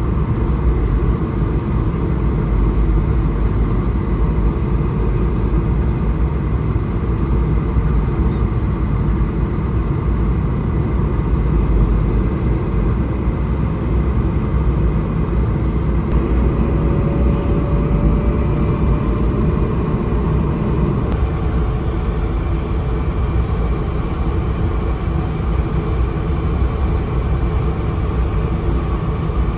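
Steady in-flight cabin noise of an Airbus A220-300: a constant low rumble of airflow and engines with a few steady tones over it. The tone shifts slightly about two-thirds of the way through.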